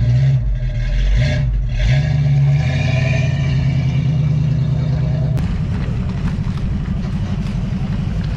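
Car engines running as cars drive out: one engine revs up about two seconds in and holds its higher pitch. A little past five seconds the sound cuts abruptly to another engine's low, rapidly pulsing rumble.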